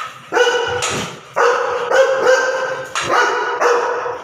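Labrador retriever barking loudly in three long runs, agitated at a loud noise.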